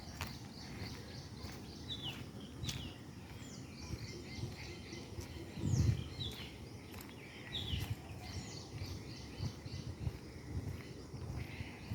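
Small birds calling with short, falling chirps, repeated every second or so, over a low rumble with a few louder low bumps, the loudest about six seconds in.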